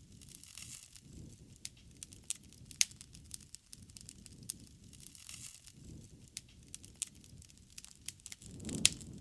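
Wood fire burning, with irregular sharp crackles and pops over a low rush of flame. The flames swell near the end, with one loud pop.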